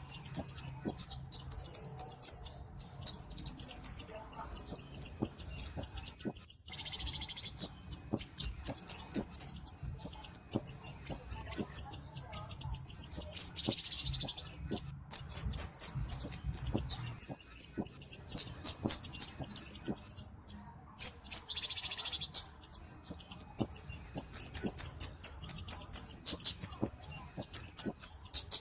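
Kemade flowerpecker (cabe-cabean) singing: fast runs of high, thin chirps lasting several seconds each, broken by short pauses. Three short hissy bursts come between runs, about a quarter, half and three quarters of the way through.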